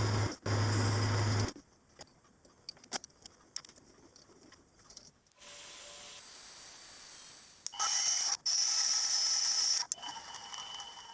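Machine-shop sounds of metal parts being machined, in short clips that cut abruptly: a machine tool's motor running with a steady hum, a quiet stretch of small clicks and handling, then a steady run and a loud stretch with a high steady whine.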